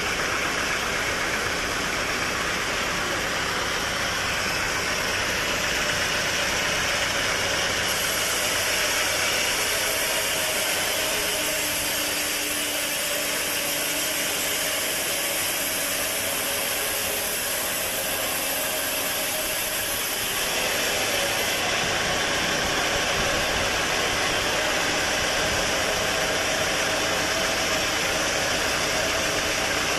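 Sawmill machinery running steadily, a constant mechanical din. A brighter, hissier layer comes in about eight seconds in and drops back about twenty-one seconds in.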